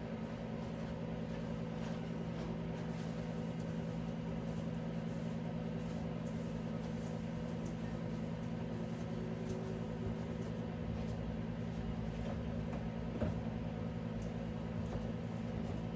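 Steady low mechanical hum, with one light knock about thirteen seconds in.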